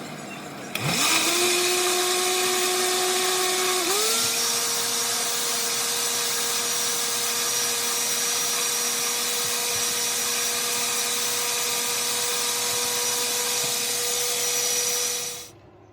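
Countertop blender puréeing boiled tomatoes, garlic and seasonings with some of their cooking water into a sauce. The motor starts about a second in and its pitch climbs quickly. It steps up higher once about four seconds in, then runs steadily and stops shortly before the end.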